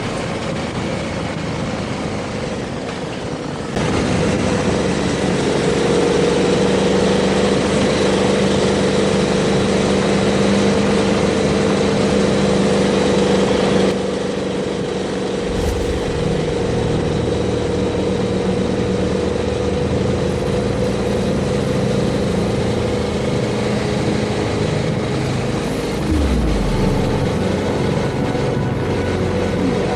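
KTM 1290 Super Adventure S's V-twin engine running at a steady road speed under a hiss of wind and road noise. It gets louder about four seconds in, eases off about ten seconds later, and picks up again near the end.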